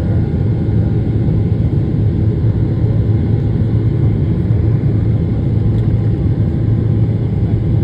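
Steady, loud cabin drone of a Boeing 777-300ER in flight, with the low rumble of its GE90 engines and the rush of air.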